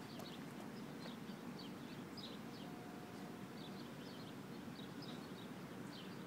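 Faint outdoor ambience: small birds chirping in short repeated calls, over a steady low background rumble.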